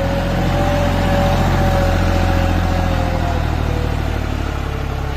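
Tractor diesel engine running steadily, with a steady whine over it that fades out a little after the middle.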